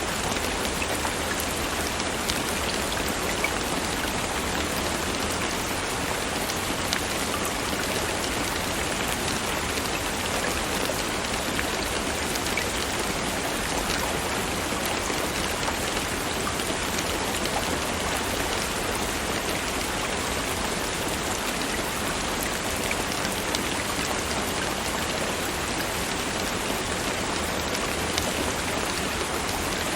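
Steady rain falling, a dense hiss with many small drop ticks throughout.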